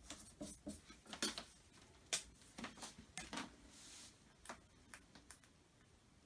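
Faint handling sounds of small stick-on furniture parts being fitted to a cupboard: scattered light clicks and taps, with a short soft rustle about three and a half seconds in.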